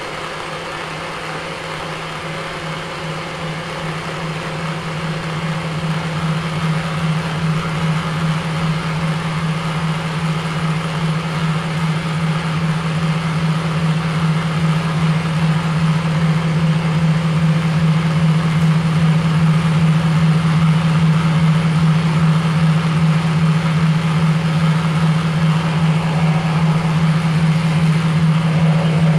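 A steady, loud, low droning hum with a fast, even pulsing flutter, like a running motor. It grows louder over the first several seconds, then holds.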